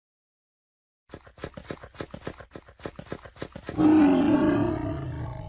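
Tiger growling and roaring. About a second in, a fast run of short pulses starts, roughly seven a second, and near the end it turns into a loud roar that slowly fades.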